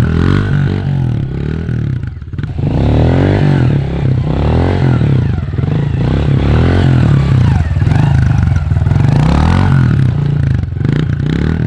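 Honda CRF pit bike's small four-stroke engine being ridden, revving up and down repeatedly as the throttle is worked, with a brief drop in revs about two seconds in.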